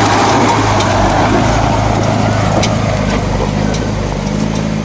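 A vehicle's engine idling: a steady low hum under a rough, even mechanical noise.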